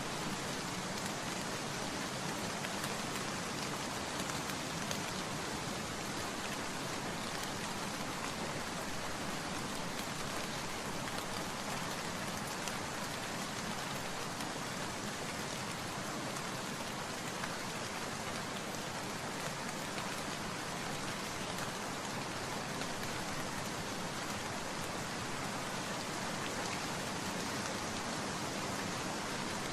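Steady rain falling on surfaces, an even continuous patter with no let-up.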